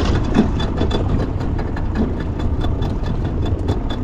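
Fishing boat's engine running steadily at idle, a low rumble, with faint rapid high ticking over it.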